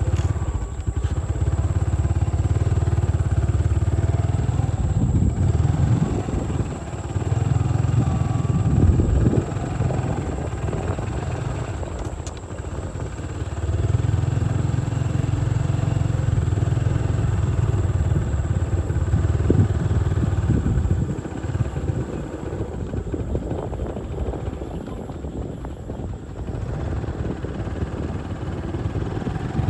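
Motorcycle running while being ridden, its engine note steady underneath, with a heavy low rumble that swells and eases in stretches of several seconds.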